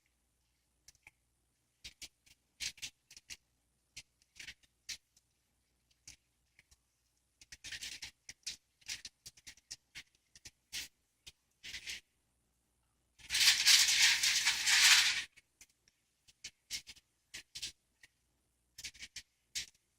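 Hands rolling a raw bacon weave, giving scattered soft clicks and crinkly rustles. About two-thirds of the way through there is one louder rustle lasting about two seconds.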